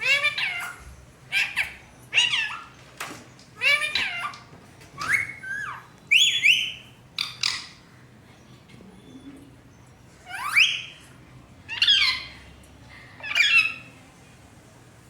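Pet parrot calling: a series of short squawks and whistled calls, about a dozen in all, some of them rising whistles, with a pause of a couple of seconds in the middle.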